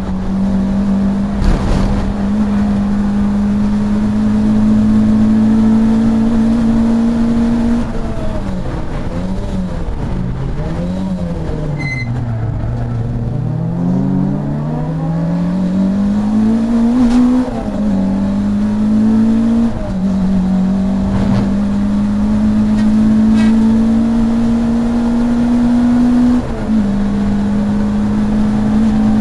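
Saloon race car's engine heard from inside the cabin, running hard at high revs. The note climbs slowly on the throttle, then falls and wavers for a few seconds as the car slows for a corner. It climbs again, with three quick gear changes where the pitch steps down and rises once more.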